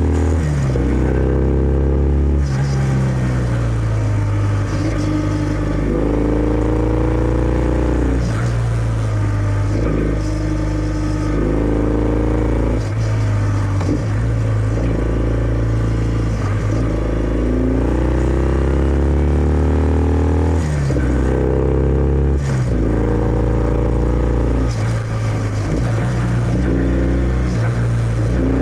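Kawasaki W650's air-cooled parallel-twin engine through its stock exhaust while riding. The pitch climbs, breaks at a gear change and climbs again, several times over, with stretches of easing off in between.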